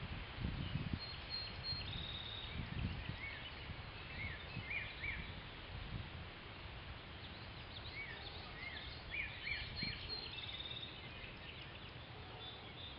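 Songbirds singing in short repeated chirping phrases and brief trills over a steady outdoor hiss. Wind rumbles on the microphone in the first few seconds.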